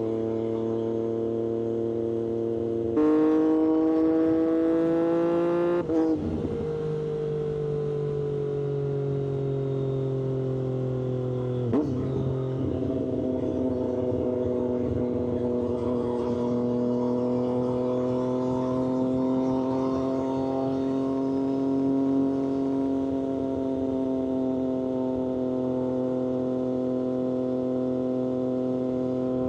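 Triumph Street Triple 765RS three-cylinder engine through an aftermarket SC-Project exhaust, on the move. About three seconds in it gets louder and climbs in pitch for a few seconds on the throttle, then the pitch sags as it eases off. A short click comes near the middle, and after that it runs at a steady cruise.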